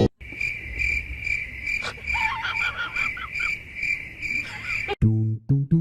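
Cricket chirping: short high chirps repeating evenly about three times a second, with a few brief lower notes about two seconds in. It cuts off suddenly near the end.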